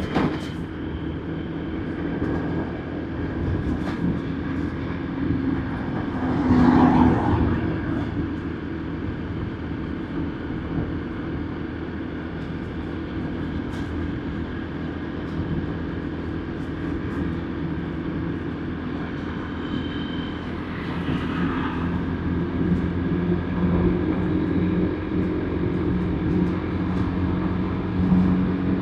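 Motorbike ridden along a road, its engine humming steadily under road noise. A louder swell of traffic comes about seven seconds in, and the engine note grows stronger near the end.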